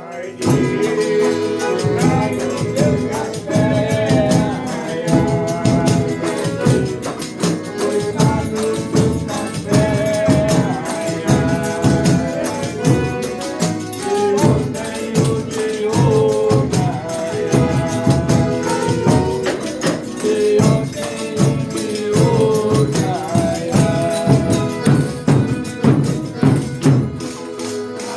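Folia de Reis folk music: voices singing a melody over a steady, driving beat of hand percussion such as a tambourine.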